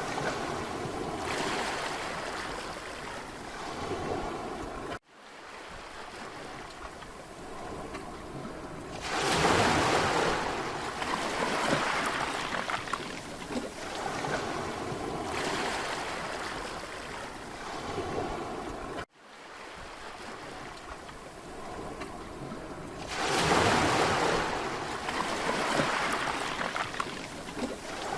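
Sea waves washing onto a beach, a steady surf wash that swells as a bigger wave breaks, twice, about fourteen seconds apart. The sound cuts out for an instant twice along the way.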